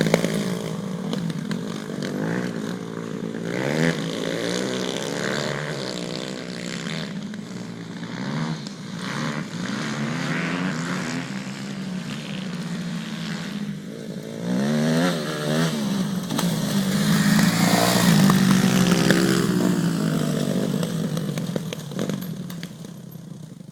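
2004 Kawasaki KX250F four-stroke single-cylinder motocross bike being ridden, its engine revving up and down repeatedly. It grows louder toward a peak about three quarters of the way in, then fades as it moves away near the end.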